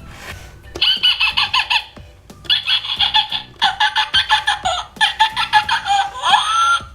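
Electronic sound effects from a Maximum Merc robotic ostrich toy: rapid, bird-like robotic chirps and squawks through its small speaker, in several bursts with short pauses, ending in a rising glide.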